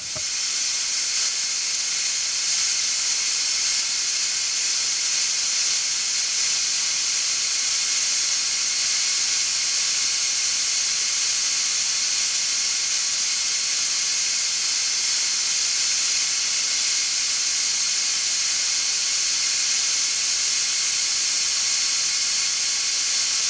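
Paint spray gun spraying, a steady hiss of air and paint that starts abruptly and runs unbroken.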